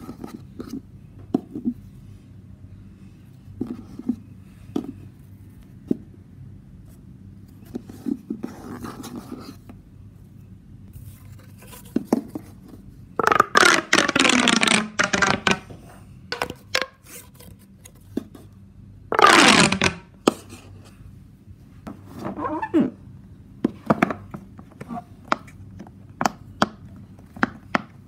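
Fidget toys handled one after another. A stretchy monkey noodle is rubbed and pulled, giving soft scrapes and taps. Then a pop tube is pulled out and pushed back, making two loud ribbed zipping sweeps that fall in pitch, about 13 seconds in and again around 19 seconds, followed by a run of sharp clicks and taps near the end.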